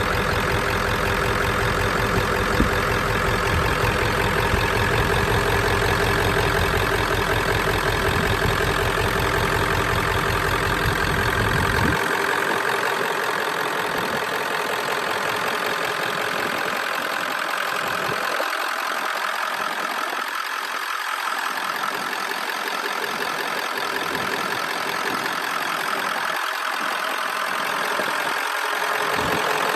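1997 crew-cab long-bed pickup's engine idling steadily. The deepest part of the rumble drops away about twelve seconds in.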